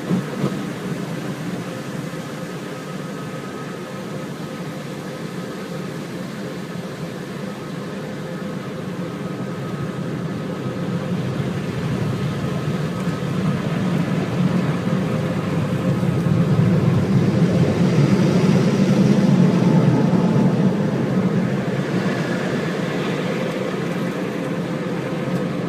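A steady low mechanical rumble, such as a running vehicle or machine, that swells louder past the middle and eases off near the end.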